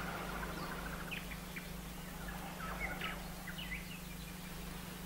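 Faint birds chirping, with scattered short calls and quick twittering runs, over a steady low hum.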